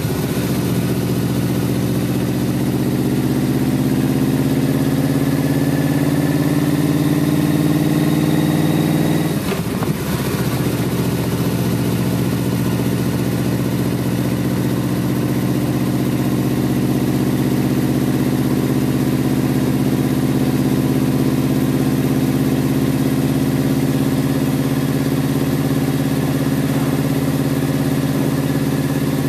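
Car engine heard from inside the cabin while driving. Its pitch climbs slowly for about nine seconds, dips briefly, then holds steady.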